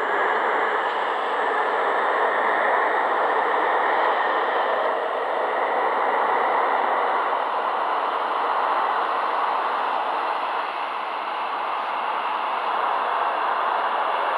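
Seoul Metro Line 2 subway train running between stations, a steady rumble and rushing noise of wheels on rail and motors, heard from inside the car.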